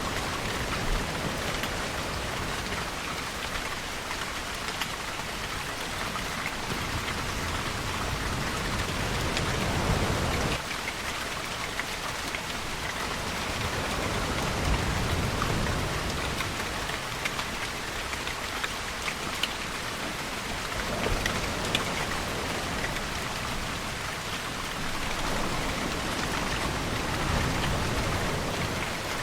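Steady rain falling on surfaces, with scattered drips, under low swells of ocean waves rolling in every several seconds.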